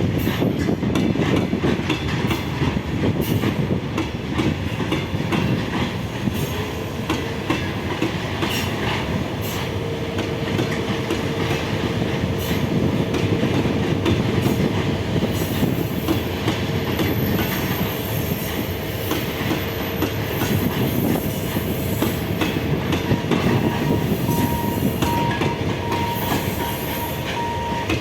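A train rolling past, its wheels clattering over the rail joints in a steady run of clicks. A steady whine comes in for a stretch, and a higher broken whine near the end.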